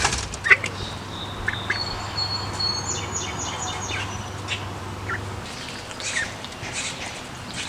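Ducklings peeping: scattered short, high chirps, a few at a time, with a thin high whistling tone behind them for a couple of seconds in the middle.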